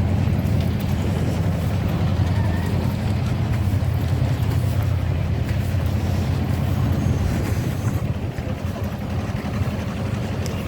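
Miniature railway locomotive's engine running steadily with a low hum, easing off slightly near the end.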